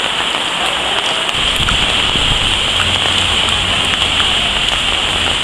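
Steady rain falling on wet pavement and plastic stall covers, with single drops ticking now and then. A low rumble joins about a second in.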